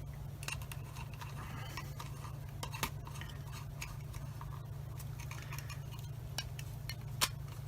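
Light, scattered clicks and ticks of small coax connectors and calibration pieces being handled and fitted to the NanoVNA's ports, over a steady low hum.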